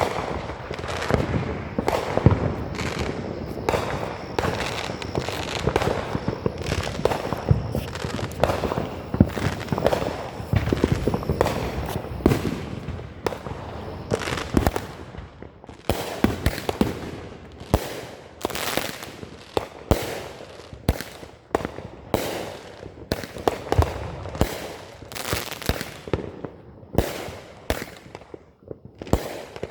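Fireworks going off: a dense, overlapping run of sharp bangs and crackles, thinning about halfway through into separate bangs several a second.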